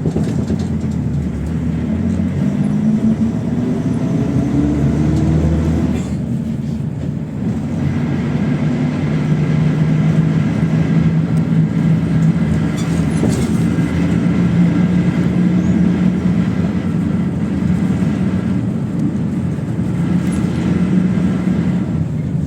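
PAZ 32054 bus's engine heard from inside the cabin: the revs climb for about six seconds, drop briefly at a gear change, then hold steady as the bus cruises.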